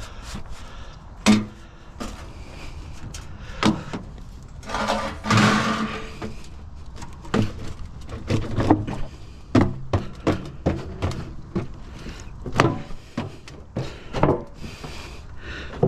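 Irregular knocks and clatter of curbside scrap being handled and loaded, with a longer rushing noise about five seconds in.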